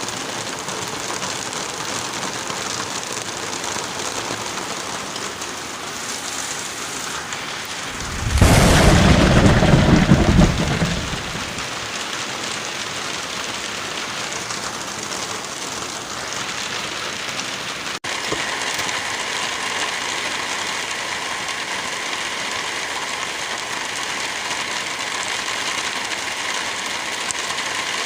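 Steady wind and light rain in a forest, an even hiss. About eight seconds in, a loud, deep burst lasts about two and a half seconds. At about eighteen seconds the hiss changes abruptly and runs a little louder.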